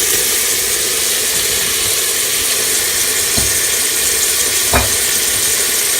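Chopped vegetables sizzling steadily as they sauté in olive oil in a pot, with two brief knocks around the middle.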